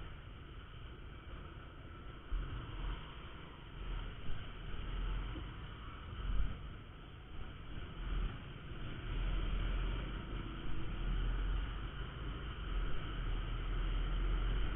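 Motorcycle riding sound: a Honda Verza 150's single-cylinder engine running under wind rumble on the microphone, which swells and fades in loudness.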